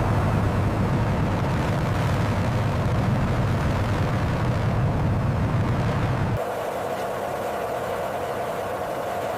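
Jet engine running with a loud, steady low rumble. About six seconds in the rumble cuts off suddenly, leaving a quieter steady hum with a mid-pitched whine.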